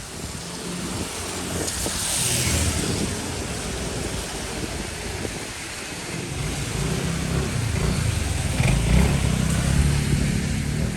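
Road traffic passing on a wet street: a hiss of tyres about two seconds in, then a vehicle engine rumbling louder toward the end.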